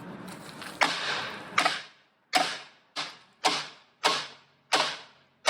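About eight hard hammer blows on an old drain pipe, each a sharp strike that rings and fades quickly, struck roughly every half second to second as he tries to knock the pipe apart.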